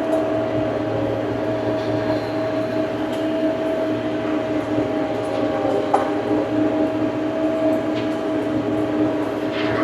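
Tractor engine running steadily, a constant drone that holds the same pitch throughout.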